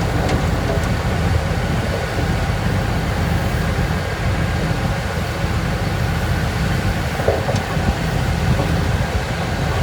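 Heavy diesel earthmoving machinery running steadily with a deep engine rumble. There is a brief higher-pitched sound about seven and a half seconds in.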